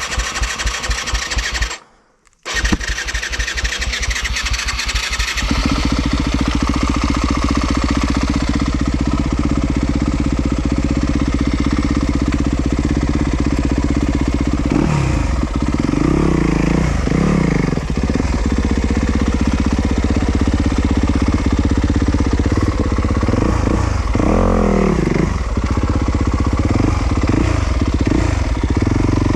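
Yamaha YZ250FX four-stroke single-cylinder dirt bike engine running under load, the revs swinging up and down several times as the throttle is worked, with a brief half-second cutout about two seconds in.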